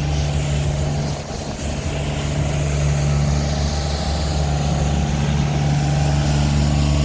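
Snow plow truck's engine running steadily close by, a constant low drone, over the noise of city traffic.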